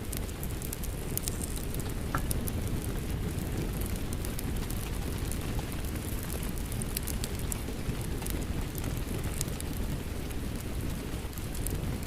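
Steady rain mixed with a crackling wood fire: a constant low rush with frequent small sharp pops and snaps scattered throughout.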